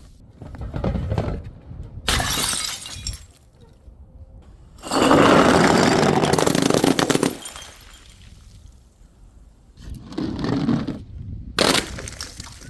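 Glass bottles shattering several times, each a crash of breaking glass. The loudest is a dense crash about five seconds in that lasts about two seconds.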